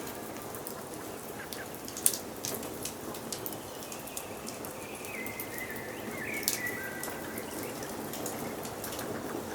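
Wood fire crackling with scattered sharp pops over a steady hiss, the loudest pop about two seconds in. A bird sings a few short phrases in the background through the middle.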